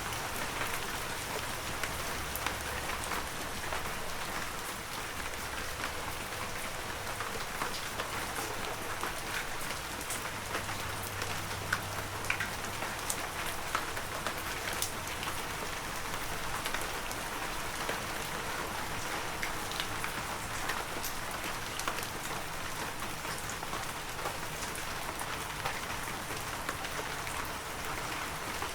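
Heavy rain falling steadily, with many sharp ticks of individual drops striking close by.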